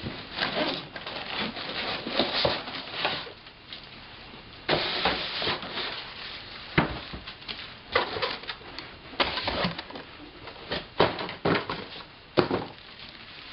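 Cardboard box and packing material rustling, scraping and knocking in irregular bursts as a projector is worked out of its box, with a few sharper knocks.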